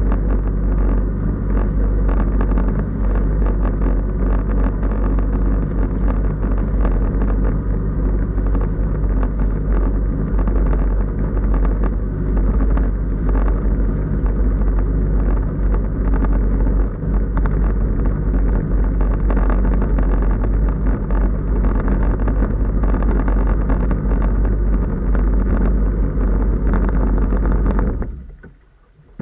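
Jet ski engine running steadily under way with a heavy low rumble. It cuts off suddenly near the end.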